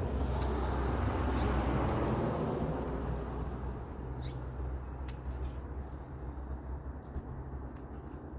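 A road vehicle passing by, its rumble swelling in the first two seconds and then slowly fading. Over it come a few short sharp clicks from pruning shears cutting frost-damaged stems.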